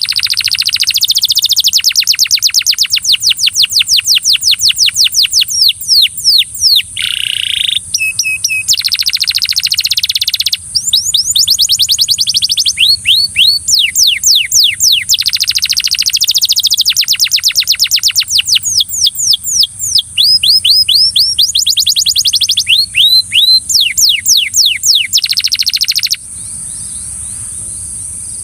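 Belgian canary singing: long rolling runs of very fast repeated notes, the phrase and pitch changing every few seconds, until the song stops about 26 seconds in, leaving a steady high hiss.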